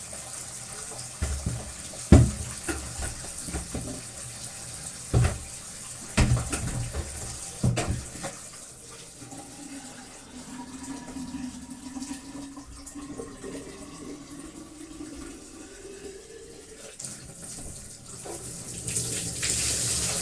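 Water running from a tap into a sink as Dyson vacuum parts are rinsed, with several sharp knocks of the parts against the sink in the first eight seconds. The flow grows louder near the end.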